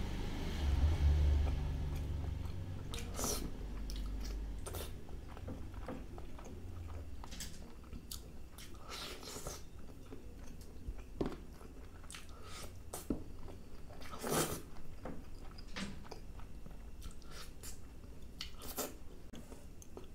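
Close-miked chewing and biting of a person eating chicken masala curry with his fingers: wet mouth smacks and sharp clicks scattered irregularly, with a few louder crunchy bites.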